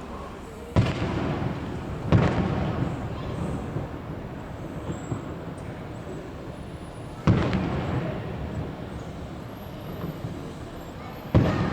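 Fireworks shells bursting: four sharp booms, two close together near the start, one in the middle and one near the end, each followed by a rumbling echo that dies away.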